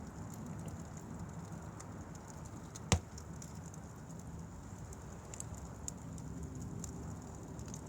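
Wood fire burning with a steady low rustle and faint scattered crackles, and one loud sharp pop about three seconds in.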